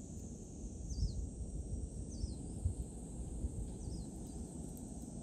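Wind buffeting the microphone, with a small bird repeating a short, high, falling call three times, about every second and a half. A steady high hiss runs underneath.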